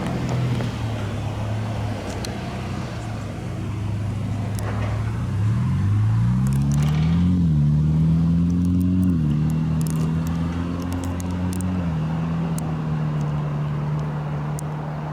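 A road vehicle's engine accelerating: its low hum rises in pitch, then drops twice as the transmission shifts up, then settles into steady running.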